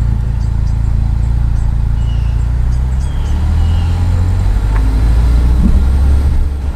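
Low rumble of a motor vehicle's engine running close by. It grows louder after the middle and drops away near the end, with a few faint high chirps over it.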